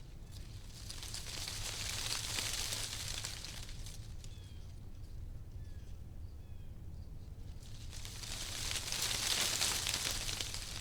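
Wind blowing through tree leaves: a rustling hiss that swells and dies away twice, once around two seconds in and again, louder, near nine seconds in.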